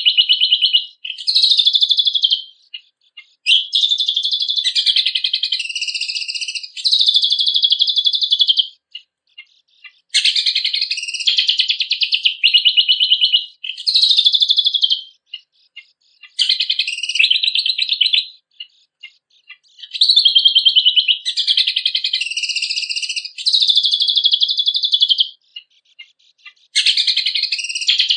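Cucak kombok (kecial kombok) songbird singing: high, rapid, trilled phrases of one to three seconds each, separated by brief pauses.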